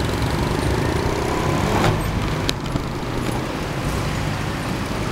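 Honda Civic with a loud aftermarket exhaust, engine running steadily as the car drives through a gymkhana course. There are a couple of sharp clicks about two seconds in.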